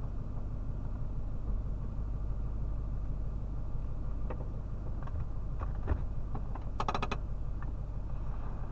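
Car engine idling with the car stopped, heard inside the cabin as a steady low hum. Scattered small clicks and knocks come in the second half, with a quick run of clicks about seven seconds in.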